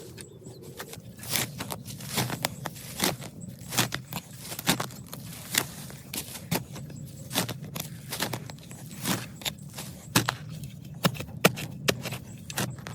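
Hand-tool work: sharp strikes repeating about once a second, with scraping and rustling between them.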